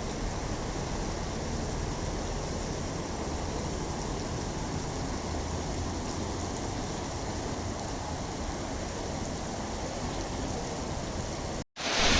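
Steady rushing noise of water, like heavy rain or fast floodwater. Near the end it cuts off abruptly and a louder, hissier rush starts.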